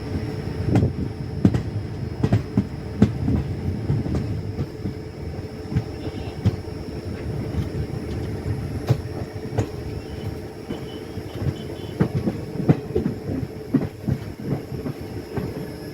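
Passenger train running on the track: a steady rumble with irregular clacks and knocks from the wheels over the rail joints.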